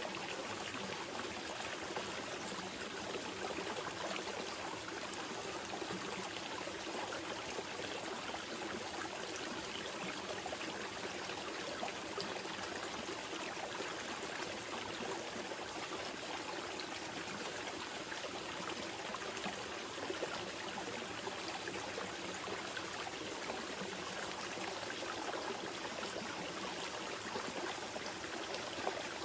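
Small mountain river flowing steadily over stones: an even, continuous rush and babble of water.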